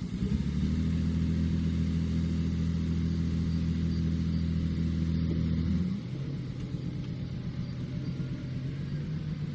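Heavy construction-vehicle engine running, stepping up to a higher, louder steady speed just after the start and holding it for about six seconds before dropping back to a lower steady run.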